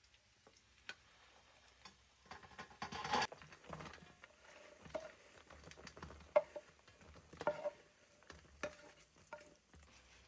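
A utensil stirring and scraping in a cooking pot: irregular clicks and scrapes, with a longer scrape about three seconds in and a couple of brief metallic rings.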